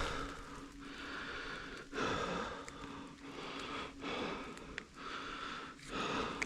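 A runner's hard, rhythmic breathing, about one breath a second.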